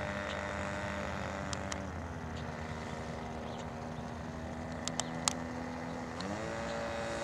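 OS .46 two-stroke glow engine on a PC-9 model airplane running steadily at low throttle while taxiing. Its pitch drops a little about two seconds in, then rises with a throttle blip near the end.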